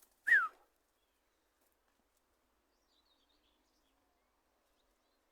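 Quiet open-field ambience with a few faint bird chirps, after a short high call that falls in pitch in the first half-second.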